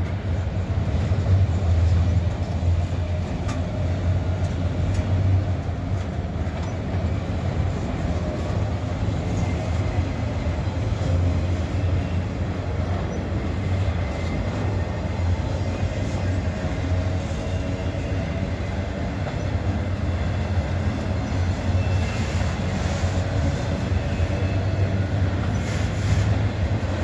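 A freight train's cars rolling past at slow speed: a steady rumble of wheels on the rails with a few light clicks, and a faint thin wheel squeal in the second half.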